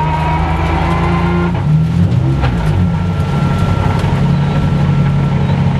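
Drift car's engine running at low revs, heard from inside the cabin. Its note wavers up and down about two seconds in, then settles into a steady run while the engine warms up.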